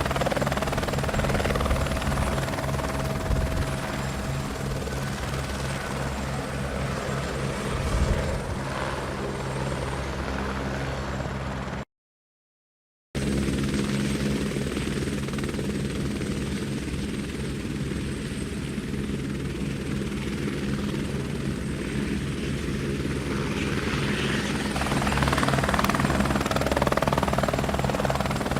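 Helicopter in flight, its rotor beating fast and steadily over the engine's drone. About twelve seconds in, the sound drops out to dead silence for about a second, then the helicopter continues.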